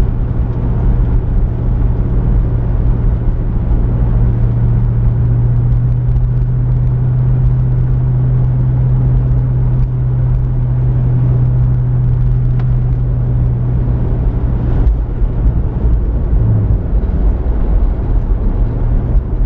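Pontiac Firebird's engine and exhaust droning steadily at a constant pitch while the car cruises, with road noise underneath.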